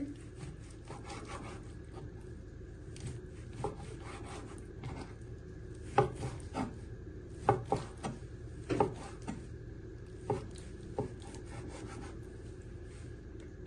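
Kitchen knife slicing through raw chicken breast on a chopping board: soft irregular cutting strokes with a few sharper taps of the blade on the board.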